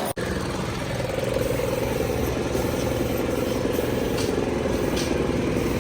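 Vehicle engine idling steadily, starting right after a brief break in the sound.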